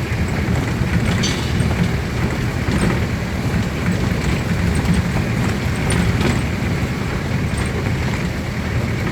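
Steady low rumble of a vehicle in motion, with a continuous hiss above it and a few faint clicks.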